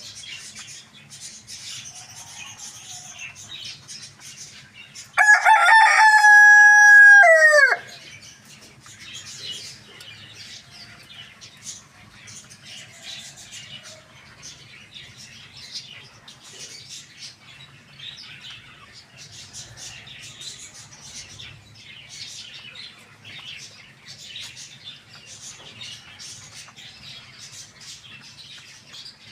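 Rooster crowing once, a long held call about five seconds in that falls away at its end. Faint high chirping of small birds goes on underneath.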